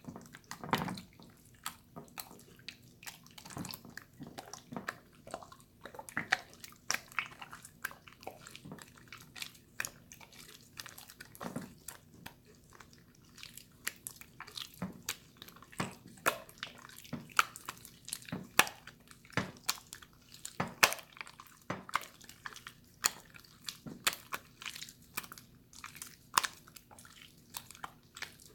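Water slime being squished and worked by hand, a dense run of short wet clicks and pops, several a second.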